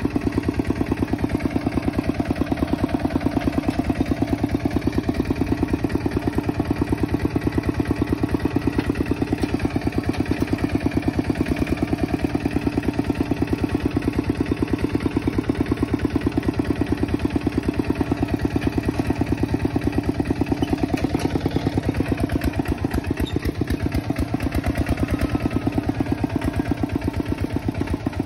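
Kubota tractor's diesel engine running steadily with a rapid, even pulsing beat; the beat grows a little uneven near the end.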